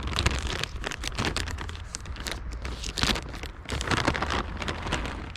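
Birdseed being put down from a bag: irregular pattering and crinkling, with a low rumble underneath.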